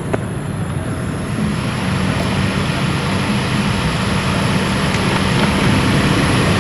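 Kawasaki ZZR1100 (ZX-11) inline-four engine running through a new aftermarket Tritech Racing exhaust, growing steadily louder.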